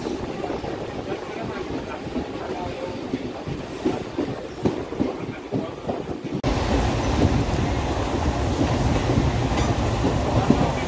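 Electric local train running, heard from its open doorway. The wheels clack irregularly over rail joints through a station, then about six seconds in the sound jumps abruptly to a louder, steady rumble and rush of the moving train.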